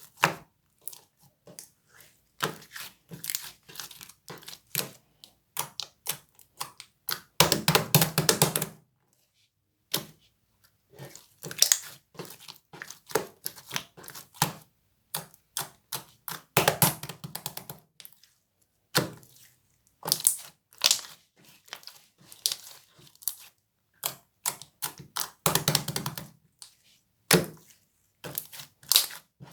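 Sticky grape jelly slime being squeezed and pressed by hand: irregular wet clicks and crackles, with three louder spells of rapid popping where air pockets are squashed out.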